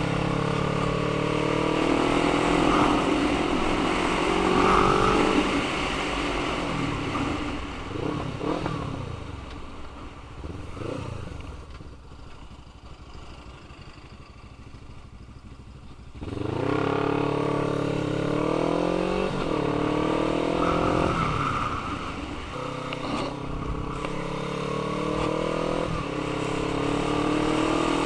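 Motorcycle with an aftermarket Black Widow stainless steel exhaust accelerating through the gears, the engine note climbing and dropping back at each upshift. The engine goes much quieter about halfway through, then comes back in suddenly with several quick upshifts.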